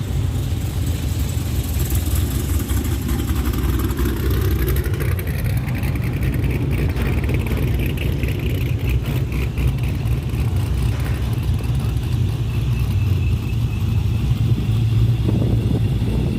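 Car engine running steadily, its sound mostly low-pitched.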